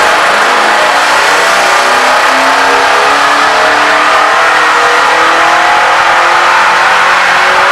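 Pontiac Trans Am's engine, fitted with long-tube headers, making a loud wide-open-throttle pull on a chassis dyno: the engine climbs steadily through the revs in one gear, its pitch rising slowly and evenly throughout.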